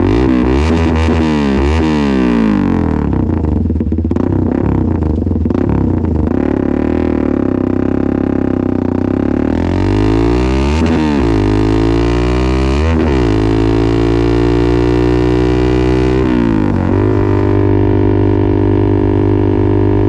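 Suzuki Gixxer 250 SF's single-cylinder engine running loud through an open-pipe full-system exhaust with no catalytic converter, revved in repeated quick blips. About halfway it is revved again and then held in a long rising rev before it settles into steady running.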